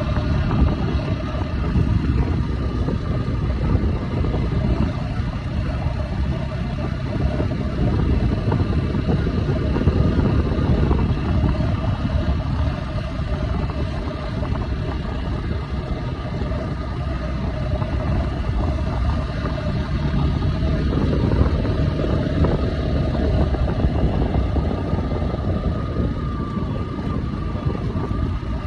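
Motorcycle engine running under way, its pitch drifting slowly up and down with engine speed, with wind rumbling on the microphone.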